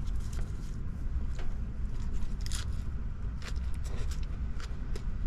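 Close crunching and crisp clicks of someone biting into and chewing a lettuce wrap filled with rice and beef, over a steady low rumble.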